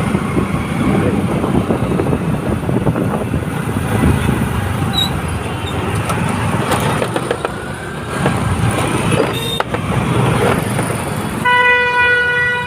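Road traffic noise with engines running. Near the end a vehicle horn sounds one long steady blast.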